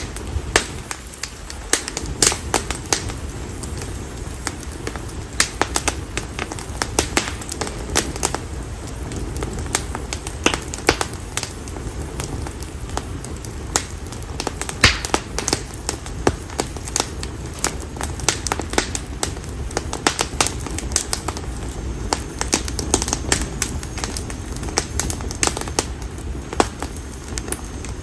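A bonfire of split konara oak (Quercus serrata) firewood burning, with frequent irregular sharp crackles and pops over a steady low rumble of flames.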